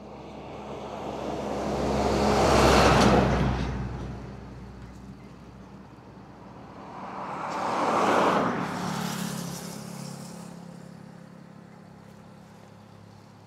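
Two road vehicles pass close by, one after the other, each swelling up and fading away. The first, about three seconds in, is the louder, with a deep rumble. The second passes about eight seconds in.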